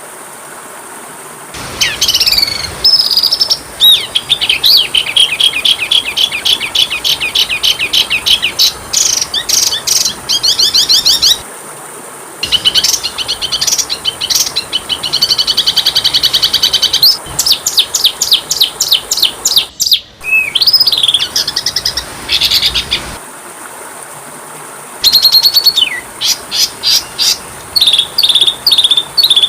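Oriental magpie-robin (kacer) singing a loud, fast, varied song of rapid chirps, trills and whistled notes, in long phrases broken by short pauses.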